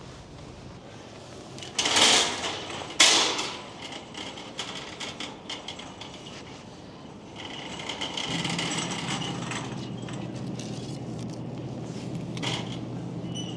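Two loud thuds about a second apart, followed by lighter knocks and clatter, then a steady low hum that starts about eight seconds in.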